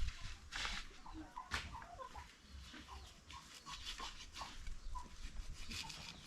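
Chickens clucking faintly in short scattered calls, mixed with light clicks and knocks.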